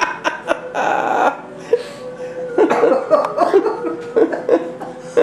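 A man laughing in quick, repeated bursts, with a short hissing burst about a second in.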